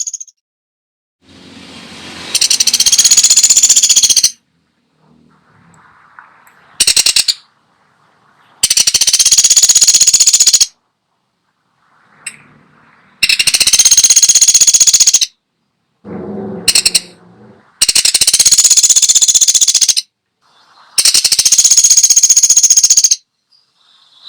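Pelatuk sampit (Indonesian woodpecker-type songbird) giving fast, high rattling trills, each about two seconds long, repeated five times with short gaps and two brief snatches between them.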